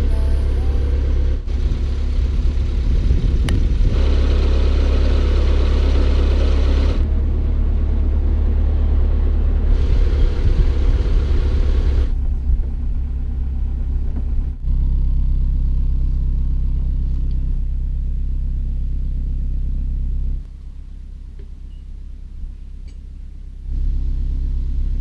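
Narrowboat's inboard diesel engine running with a steady low thrum, dropping quieter for about three seconds some twenty seconds in.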